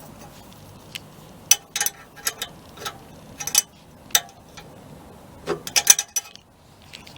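Irregular sharp clicks and light knocks of hard objects being handled, about a dozen scattered over several seconds, some in quick clusters.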